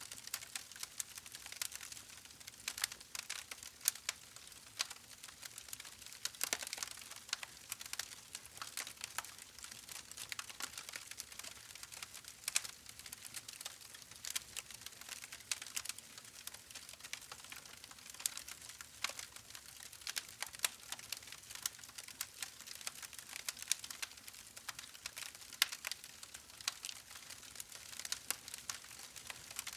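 Wood fire burning in a fireplace: dense, irregular crackling and popping over a steady soft hiss.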